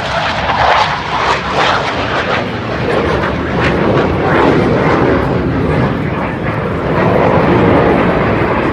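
Blue Angels jet aircraft flying past: a loud, broad rush of jet engine noise that builds over several seconds and is loudest near the end.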